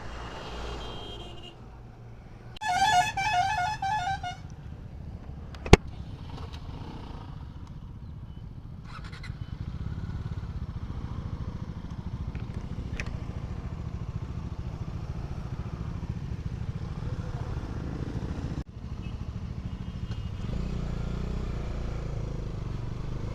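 A vehicle horn honks once with a wavering pitch for about a second and a half, a sharp click follows, then a motorcycle engine runs steadily underway, getting louder about nine seconds in.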